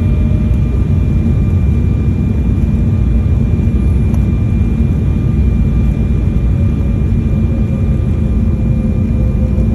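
Jet airliner cabin noise on final approach: a steady low rumble of engines and airflow with a faint steady whine over it.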